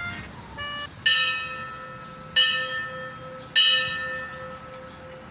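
A bell struck three times about a second apart, each stroke ringing out and slowly fading, after a short run of higher chime-like notes.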